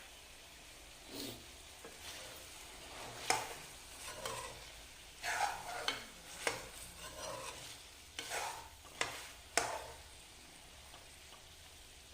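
Chicken pieces being stirred in a small kerahi (wok): a spatula scrapes and clinks against the pan in a run of strokes over the meat frying in oil. The meat is cooking on low heat until the oil separates from it.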